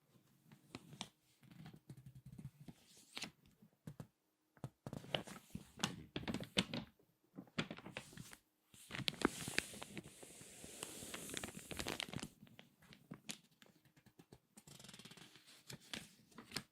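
Crinkly magazine pages crackling and rustling as they are handled, turned and squeezed. The crackles come in uneven bursts with short pauses, and there is a longer, denser stretch of crinkling about nine to twelve seconds in.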